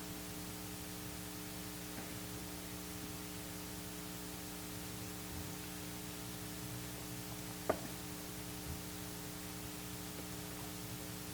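Steady electrical hum with hiss from the sound system in a quiet pause, made of several steady tones, with one sharp click about eight seconds in.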